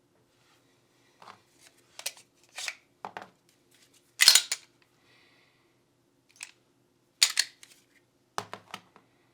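Hard small parts being handled during Glock 19 pistol cleaning: a series of separate clicks and knocks. The loudest come about four seconds in and again a little after seven seconds.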